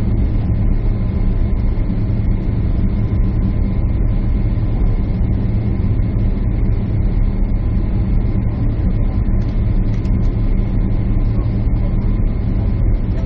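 Steady jet airliner cabin noise: a loud, even drone of engines and airflow heard from inside the cabin, with a faint steady high tone above it.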